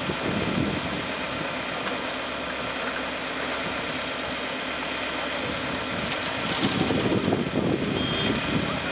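Road traffic: a vehicle engine running steadily, getting louder about seven seconds in.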